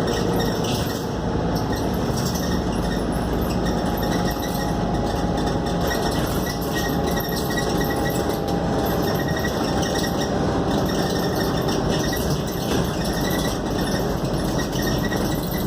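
Scania K280UD double-decker bus under way, its engine and road noise heard steadily from inside the cabin.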